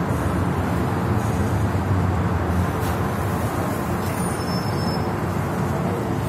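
Steady rumble of an MTR M-Train electric multiple unit in motion, heard inside the passenger car. A faint high whine comes in briefly about four and a half seconds in.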